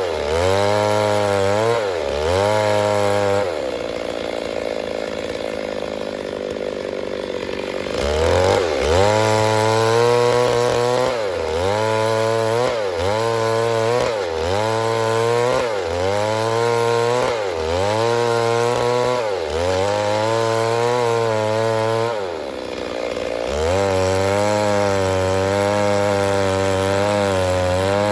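Stihl MS 382 two-stroke chainsaw running near full throttle while cutting wood. Its pitch repeatedly dips and climbs back, about once a second, as it takes the load. A steadier stretch comes early and a steady high run near the end.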